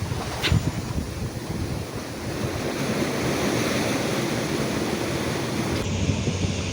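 Ocean surf washing over rocks, a steady rushing noise, with wind buffeting the microphone and a short knock about half a second in.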